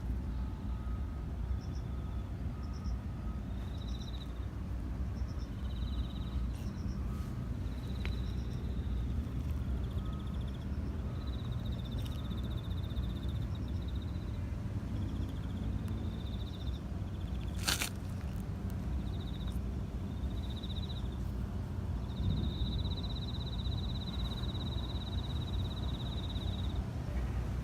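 Outdoor ambience: a steady low rumble with intermittent high, pulsing trills, one long trill lasting about four seconds near the end, and a single sharp click partway through.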